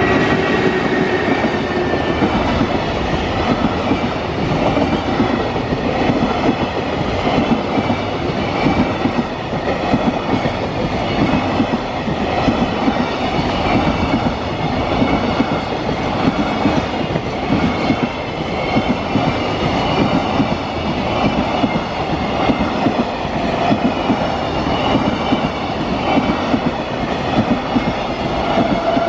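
Freight train rolling past steadily, its wagon wheels clattering over the rail joints in a continuous rattle.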